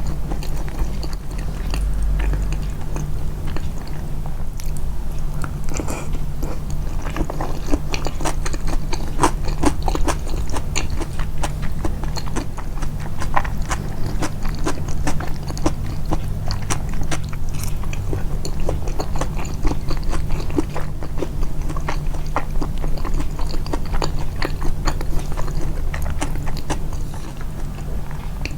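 A person chewing food close to the microphone, the mouth sounds boosted: a dense run of many small clicks and crunches over a steady low hum.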